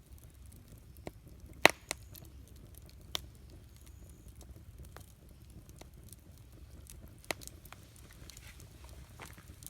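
Wood campfire burning, with scattered sharp crackles and pops over a low steady rumble; the loudest pop comes about a second and a half in, with smaller ones near two, three and seven seconds in.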